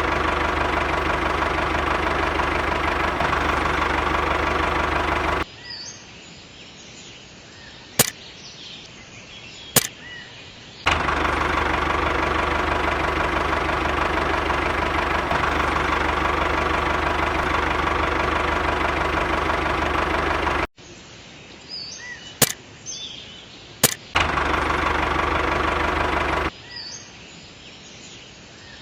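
Steady mechanical running of a small engine or motor, driving a miniature DIY tractor. It is heard in three stretches that cut in and out abruptly. Between them are quieter outdoor stretches with bird chirps and a few sharp clicks.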